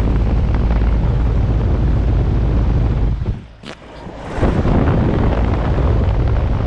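2011 Goodman 3-ton heat pump outdoor unit running in cooling mode: a steady rush of condenser-fan air and machine noise, heavy at the low end, with the fan shaking, which the owner takes to be an out-of-balance blade. Just past halfway the noise drops sharply for about a second, then comes back.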